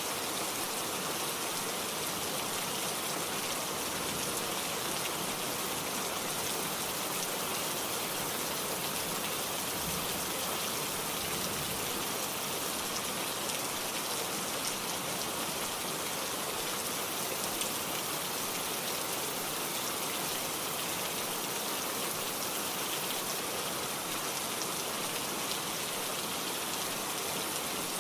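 Steady rain falling, a dense even hiss of countless drops that does not change in strength.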